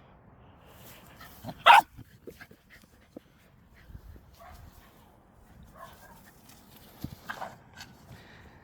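A dog barking: one loud bark a little under two seconds in and another near the end, with quieter, smaller sounds between.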